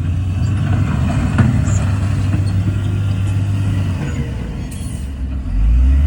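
Heavy diesel engine of earthmoving equipment running steadily under load. It eases off about four seconds in and picks up again near the end, with a single sharp metallic knock about a second and a half in.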